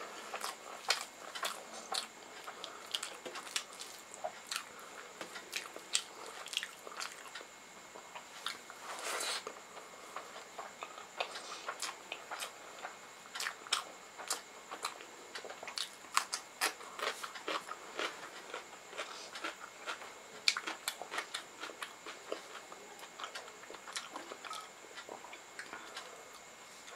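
Chewing and wet mouth clicks of someone eating rice and curry by hand, with fingers mixing the rice on a metal plate. A faint steady high-pitched whine runs underneath.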